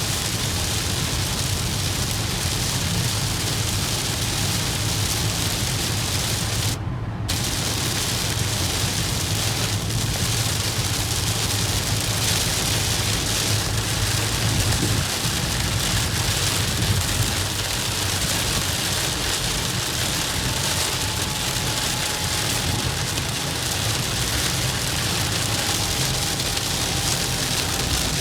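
Rain hitting a moving car, a steady hiss over the low hum of engine and tyres on the road. The hiss drops out for a moment about seven seconds in.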